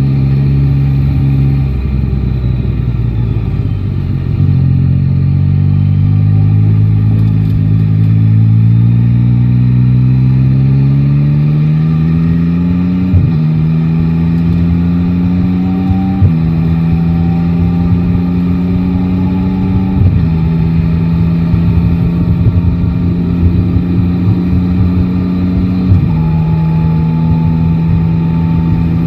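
Yamaha Tracer 9 GT's three-cylinder engine pulling away, its pitch rising steadily for several seconds, then dropping sharply four times as it shifts up through the gears and holding a fairly steady pitch between the shifts.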